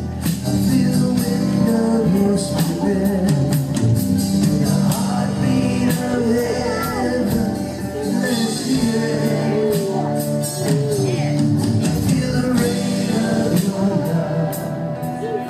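Live worship band playing with singing: a lead vocal over guitar, keyboards and drums.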